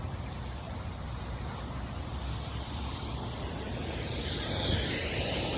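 Storm runoff water running across a flooded yard into a submerged drain: a steady rushing noise that grows a little louder and hissier near the end.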